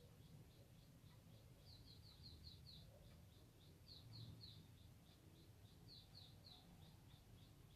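Faint, quick series of short chirps from a small bird, several a second, louder in a few short runs, over a low background hum.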